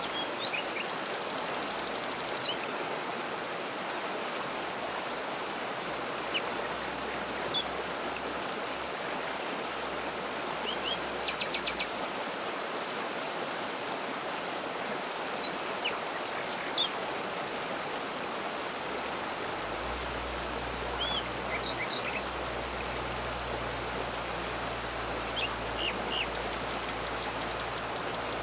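Waterfall rushing steadily, with scattered bird calls over it: short chirps and a few fast trilled series. A low rumble joins about two-thirds of the way in.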